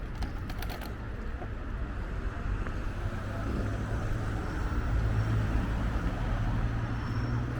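City street ambience with a motor vehicle passing: a low engine and tyre rumble that swells in the second half and eases near the end, with a few faint clicks in the first second.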